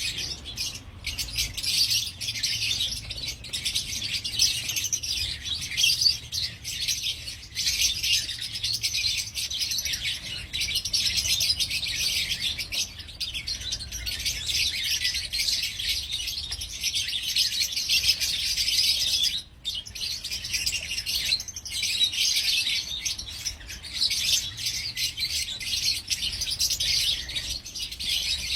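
A colony of Fischer's lovebirds, green and yellow birds, chirping and chattering together in a dense, unbroken high-pitched din, with a momentary break about two-thirds of the way through.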